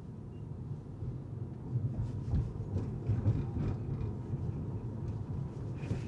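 Car being driven: a steady low rumble of tyres and engine, with a few short knocks from about two seconds in and another near the end.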